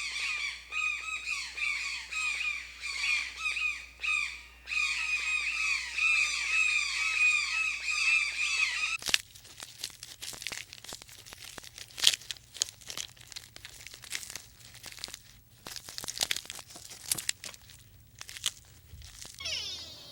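A dense chorus of many small birds peeping in rapid, high, downward-sliding chirps for about nine seconds. Then a cut to quieter scattered crackling and rustling clicks.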